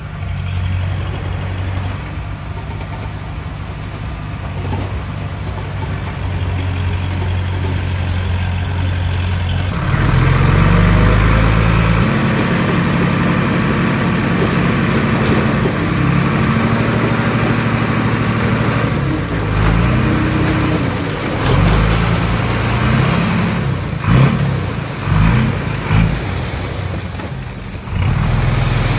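Heavy diesel engine of earthmoving machinery, running steadily at first. About ten seconds in it is louder and working under load, its pitch rising and falling again and again as the machine pushes and revs.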